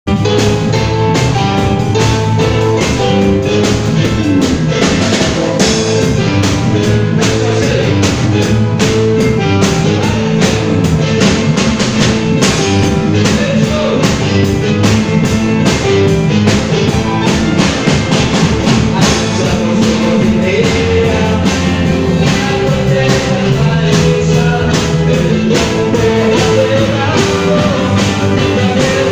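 A live band rehearsing: a drum kit keeps a steady, fast beat under bass and other instruments playing continuously.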